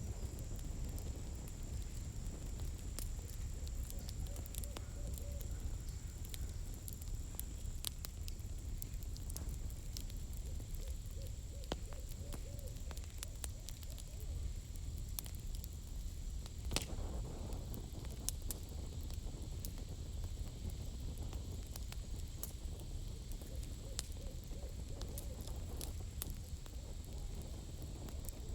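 Campfire crackling with scattered sharp pops, one louder snap about two-thirds of the way through. An owl hoots three times in short runs of notes, and a steady high-pitched tone runs underneath.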